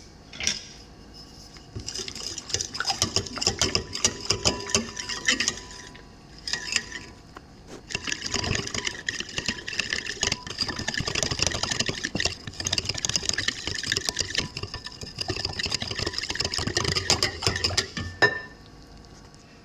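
Salt being added to the dough bowl: a dense, rattling patter of grains, in runs that start about two seconds in, pause briefly twice, and stop near the end.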